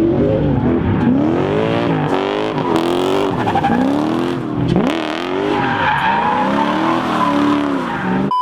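A Lexus 1UZ V8 in a Mazda mini drift truck revving up and falling back again and again while the tyres squeal and skid through a drift. The sound cuts off suddenly near the end.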